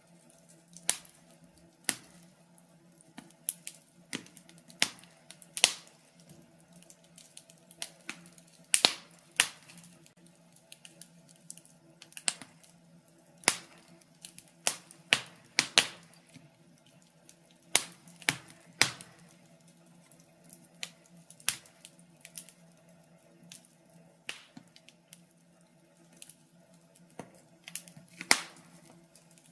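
Wood fire crackling in a fireplace: irregular sharp pops and snaps, one or two a second, over a faint steady hum.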